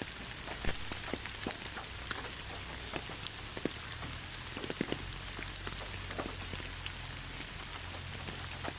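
Steady rain falling, an even hiss with individual drops ticking sharply on a surface at irregular moments, over a low steady rumble.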